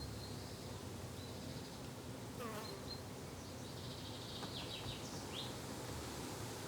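Insects buzzing in a steady drone, with a few short high bird chirps and one falling whistle about two and a half seconds in.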